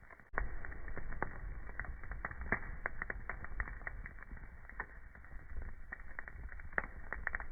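Wood fire burning in a fireplace, crackling: irregular sharp pops and snaps over a steady low rumble of the flames. The sound gets louder suddenly just after the start.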